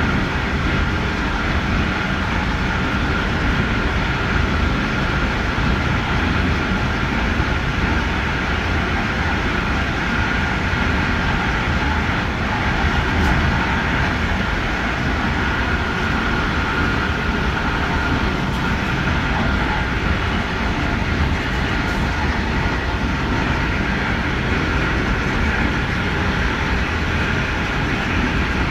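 Passenger train running at speed on jointless track, heard from inside the rear of the train: a steady rumble of wheels on rail under a constant high whine, with no rail-joint clatter.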